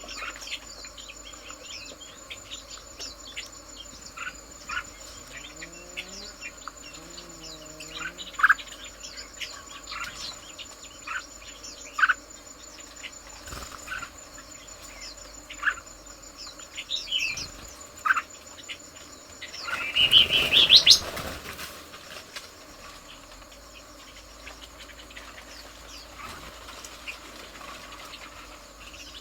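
Red-whiskered bulbuls calling in short, sharp chirps scattered throughout. About two-thirds of the way through comes a louder burst of noise with a quick rising call.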